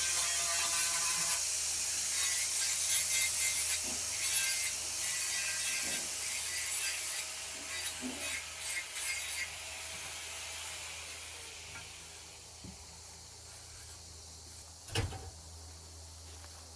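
A power tool runs against wood with a hissy, scraping noise and a steady motor whine. The whine slides down as the motor winds down about eleven seconds in, and a single knock follows near the end.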